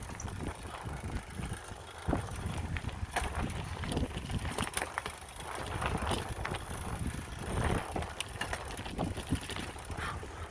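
Bicycle riding over a rough off-road dirt trail: tyres rolling with a steady low rumble, and the bike rattling with irregular clatters and knocks over bumps.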